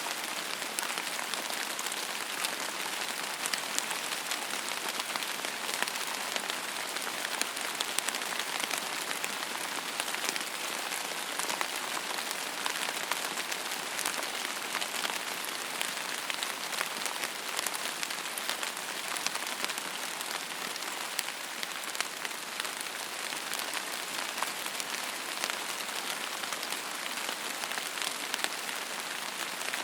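Steady rain falling on a surface, a dense even hiss with many fine individual drop ticks.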